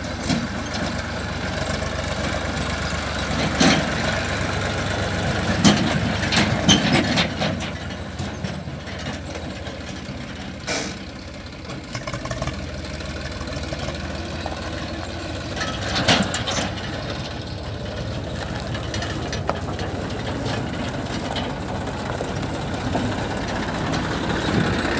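Heavy diesel engine running steadily, with several loud clunks and knocks along the way.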